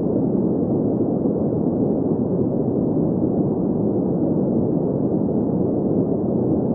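Green noise: a steady, even hiss centred in the low mids, with little bass and no treble, unchanging throughout.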